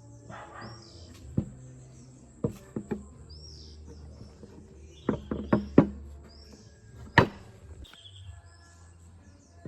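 Scattered sharp knocks and clicks, as of metal parts or tools being handled during work on the old mortising machine: a quick run of them around five to six seconds in and the loudest single knock about seven seconds in, over a low steady hum. Small birds chirp now and then in the background.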